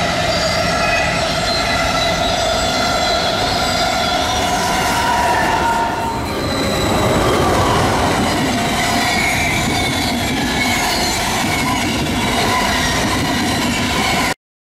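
A long SBB passenger train passing close by at speed: a steady rush of wheels on rail with several high, steady tones ringing over it. The tones shift about halfway through, and the sound cuts off abruptly just before the end.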